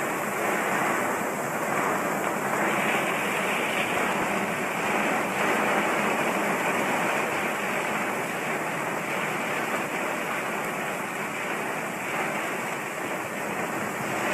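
Floodwater rushing through a wadi, a steady, even roar.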